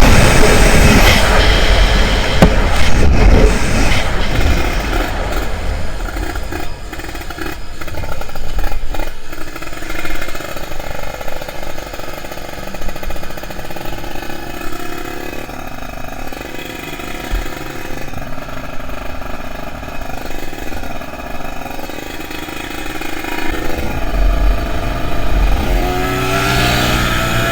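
Kawasaki Ninja 150RR's two-stroke single-cylinder engine running hard at high revs. Loud at first, it fades away over several seconds, then builds again with a rising rev near the end.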